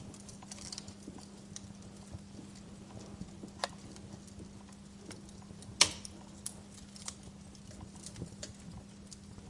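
Wood fire crackling in a fireplace: irregular small snaps and pops, with a sharp louder pop about three and a half seconds in and the loudest pop about six seconds in, over a faint steady low hum.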